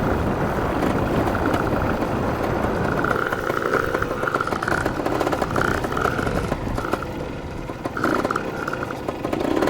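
Dirt bike engine running while being ridden, its higher-pitched engine note coming and going with the throttle over a steady rush of noise.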